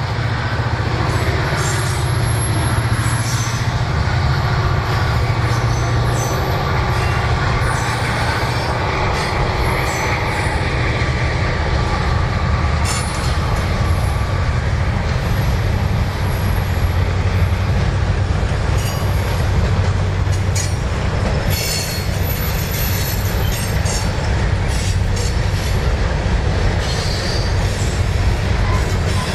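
Freight train rolling past at close range: a steady low rumble of the cars, with short high-pitched wheel squeals coming and going and clicks from the wheels over the rail joints.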